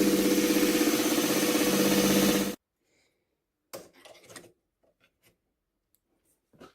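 Belt sander running steadily as it grinds a wooden knife handle, stopping abruptly about two and a half seconds in. After that come a few faint knocks and scrapes.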